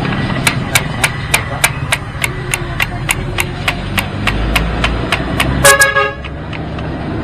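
Sharp, evenly spaced taps at about three a second, then a short vehicle horn honk about six seconds in, over a low steady engine rumble.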